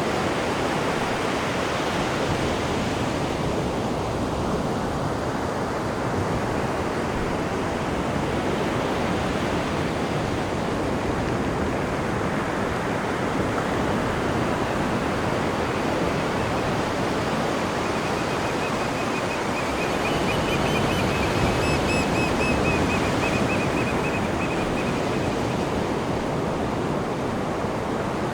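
Steady rushing of churned water in a cruise ship's wake behind the stern, like heavy surf. About two-thirds of the way in, a faint high wavering tone sounds over it for several seconds.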